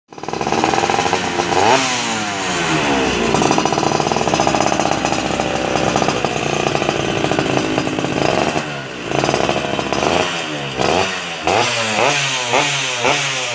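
Yamaha RX-King two-stroke single-cylinder engine revving through an aftermarket chrome performance exhaust. The revs climb and fall, are held high for several seconds, then from about ten seconds in the throttle is blipped quickly, about twice a second.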